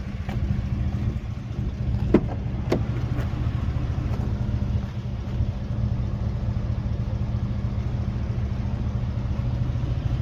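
A vehicle engine idling steadily, with two sharp clicks a little over two seconds in.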